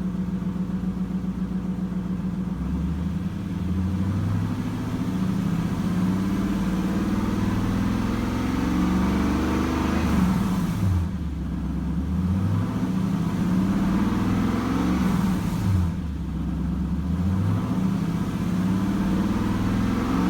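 1997 Lexus LS400's 4.0-litre V8 revved from idle from the driver's seat: one long, slow climb and fall in the first half, then three short blips, each dropping back to idle, revving up smoothly. The engine has a slight exhaust leak with a light knock, put down to the car's rear-end crash damage.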